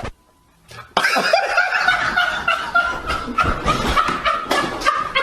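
Laughter, breaking out about a second in after a brief hush.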